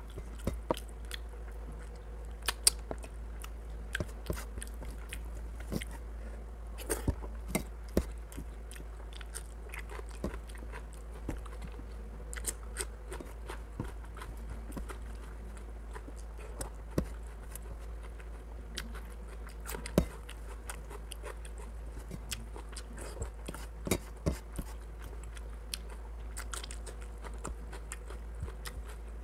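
Close-up eating by hand: chewing and wet mouth sounds, with fingers mixing curry and rice on a stainless steel plate, giving a steady run of irregular sharp clicks and ticks. A steady low hum lies underneath.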